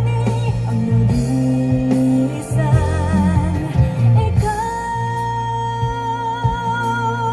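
A sung ballad with heavy bass playing over a car audio system. About four and a half seconds in, the voice holds one long note with vibrato.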